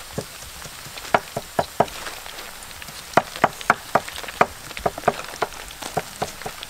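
Shrimp frying in hot oil: irregular crackling and popping, several pops a second, over a faint steady hiss.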